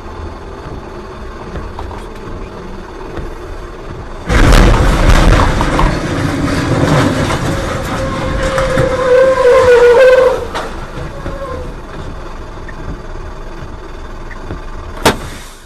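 Vehicle road noise, then a sudden loud crash about four seconds in, with several seconds of crunching and scraping and a drawn-out squeal near its end, before it settles back to road noise with a sharp click near the end.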